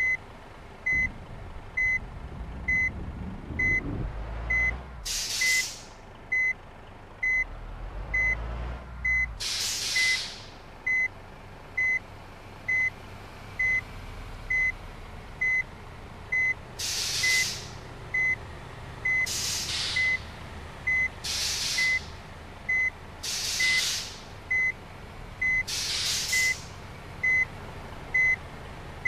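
Bus reversing alarm beeping steadily, a little more than once a second, with short air-brake hisses every few seconds over a low engine rumble.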